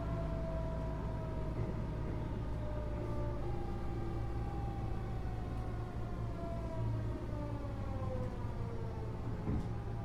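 Keio 8000 series train's Hitachi GTO-VVVF inverter and traction motors whining in several stacked tones that glide slowly downward in pitch, over the steady low rumble of the running train. There is a single short knock near the end.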